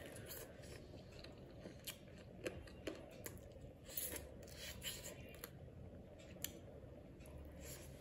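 A person eating chilli chicken by hand, chewing and biting with wet mouth clicks and smacks. There are several sharp smacks between about two and six and a half seconds in.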